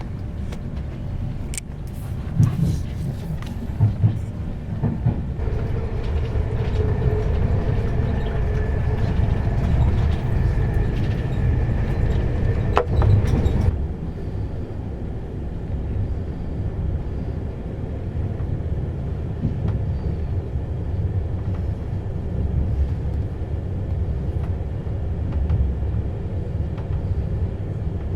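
Enterprise passenger train running along the line: a steady low rumble, with a few sharp knocks in the first few seconds and a faint whine from about six seconds in that cuts off abruptly about fourteen seconds in.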